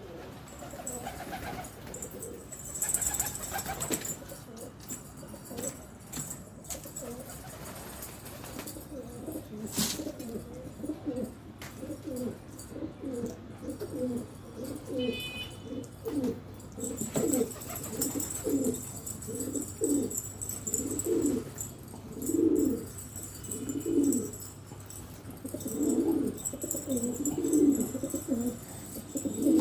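Domestic pigeons cooing: a run of low, repeated coos that comes more often and louder through the second half, with an occasional sharp click.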